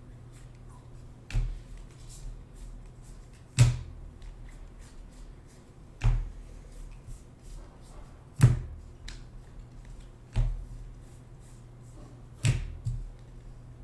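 Trading cards being set down on a table one after another: a sharp tap roughly every two seconds, with fainter card-handling ticks between, over a steady low hum.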